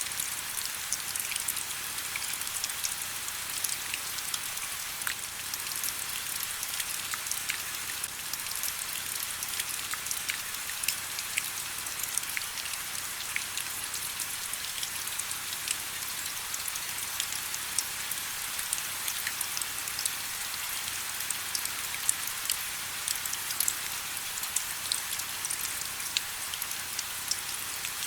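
Steady rain with many fine, crisp drop patters pattering on surfaces, the sound sitting high with almost no low rumble.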